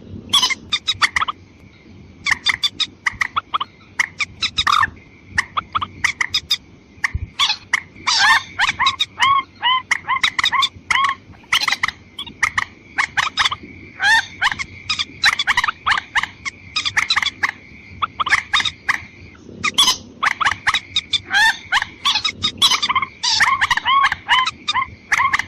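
Lure recording of watercock calls, female and male: runs of short, quick, repeated calls with a few brief pauses, over a steady high-pitched whine.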